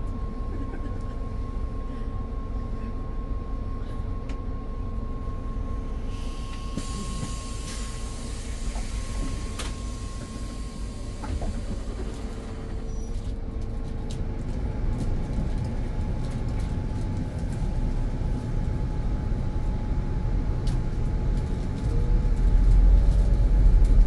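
Passenger train running: a steady rumble with a faint steady whine through the first half, growing louder in the second half, with a heavy deep rumble near the end.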